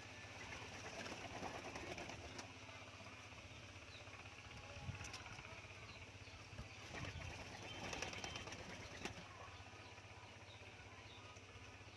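Captive-bred balam doves fluttering and flapping their wings in short bursts, a few times over the stretch, with light clicks and rustles between.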